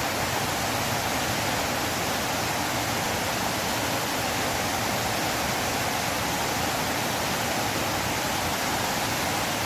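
River water flowing: a steady, even rushing with no changes.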